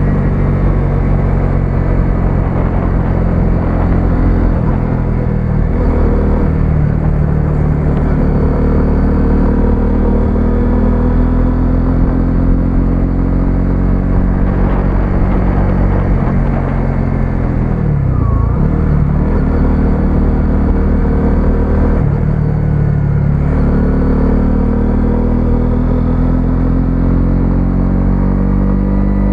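125cc single-cylinder motorcycle engine running on the road. Its pitch drops and climbs again a few times, most deeply about eighteen seconds in, as the bike slows and picks up speed.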